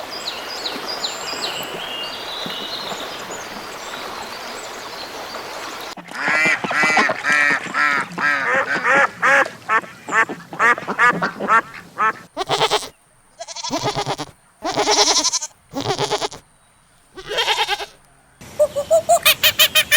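Ducks quacking. A stretch of steady noise with faint high chirps gives way, about six seconds in, to a fast run of quacks, then to several separate loud calls with silent gaps between them; near the end a quick run of short repeated calls starts.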